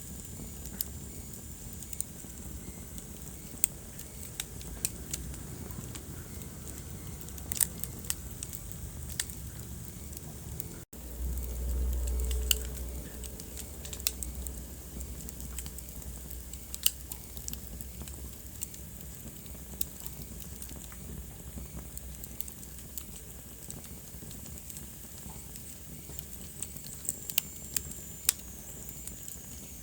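Wood fire burning in a fireplace: a steady low rumble and hiss with scattered sharp crackles and pops. The sound drops out for an instant about eleven seconds in, and a louder low rumble follows for a couple of seconds.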